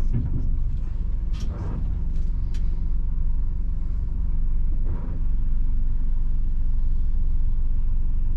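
A 1990 Mitsubishi Fuso bus's 7.5-litre diesel engine running steadily under way, a low drone with a few light clicks or rattles in the first couple of seconds. It grows a little louder about five seconds in.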